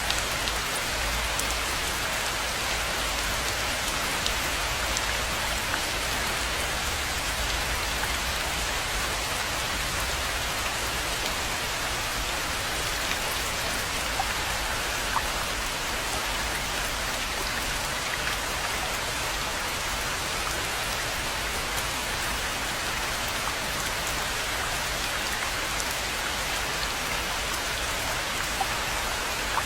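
Steady rain falling on a rainforest pond: a constant even hiss of rainfall with scattered individual drops ticking through it.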